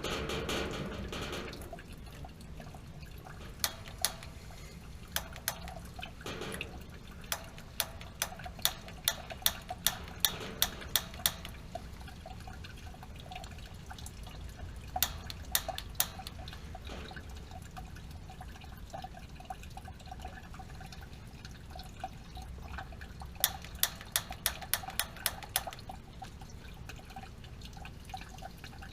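Water dripping from a leaking gas water heater: sharp drips in runs of about two a second, over a faint steady background.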